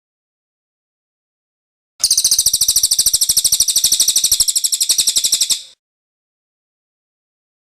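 Cililin bird singing its rolling trill: one rapid, even, high-pitched trill of about fourteen notes a second, starting about two seconds in and lasting about three and a half seconds.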